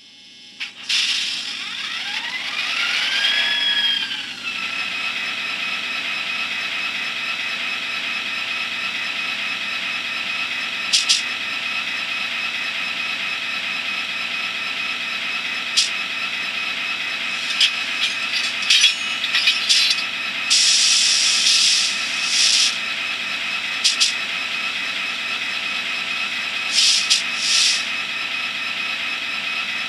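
Digital diesel sound from an ESU LokSound Micro decoder in an N scale F40PH model, played through its tiny speaker: the locomotive sound starts up with a rising whine over the first few seconds, then settles into a steady idle. Short sharp pops and brief air hisses come now and then over the idle.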